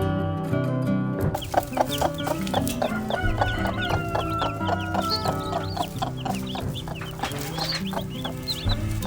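Chickens clucking with many short, quick calls, beginning about a second and a half in over background acoustic guitar music.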